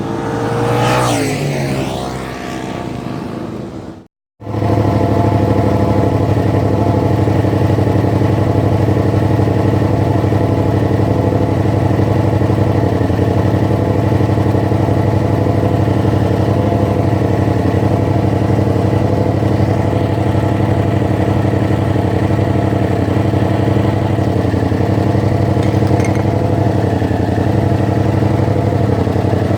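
A Yamaha MT-07's parallel-twin engine through its stock exhaust, which has been drilled out to make it louder. The bike passes by in the first few seconds, its note falling as it goes past. After a brief break, the engine runs at a steady speed close up until the end.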